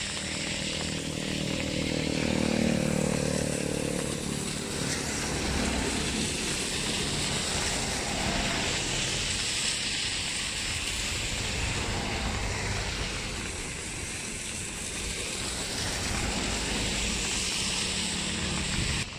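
Steady hiss of rain and wind, with a passing motor vehicle's engine droning in the first few seconds, fading by about five seconds in, and a fainter engine drone again near the end.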